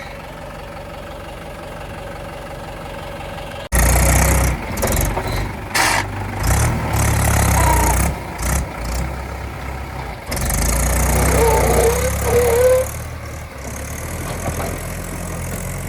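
Diesel tractor engine running steadily at first, then, about four seconds in, much louder and working, with repeated surges in revs. A short wavering squeal comes in about two-thirds of the way through.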